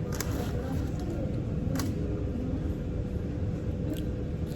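Steady low rumble of a car heard from inside the cabin, with a faint constant hum and a few short clicks.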